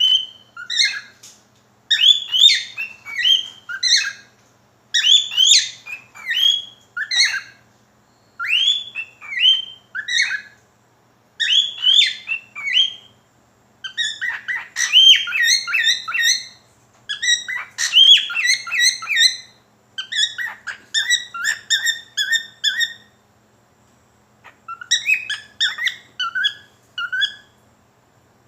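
Pet cockatiel singing: phrases of whistled notes and fast runs of chirps, broken by short pauses of a second or so.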